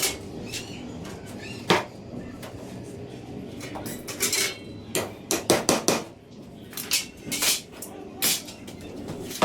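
A hammer tapping small nails into wooden sticks: about nine sharp, irregularly spaced knocks, bunched more closely in the second half.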